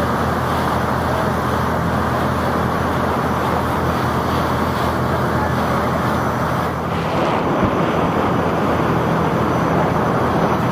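Taxi boat's engine running steadily under way, a low drone with a loud even rush of water and wind over it. The noise dips briefly about two-thirds of the way through.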